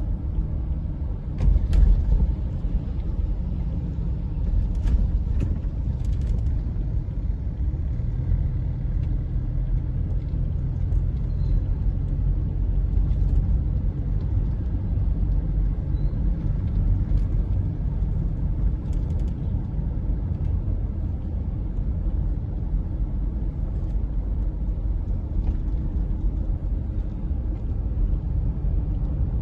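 Steady low rumble of a moving road vehicle, with a few faint clicks and knocks, the loudest about two seconds in.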